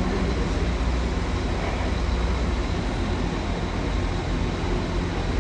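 Steady low rumble and hum of a diesel train's engine running at the platform, holding an even level.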